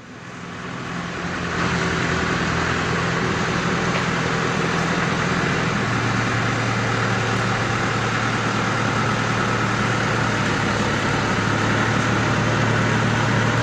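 Truck engine running steadily, swelling over the first couple of seconds, with its low hum growing stronger from about six seconds in.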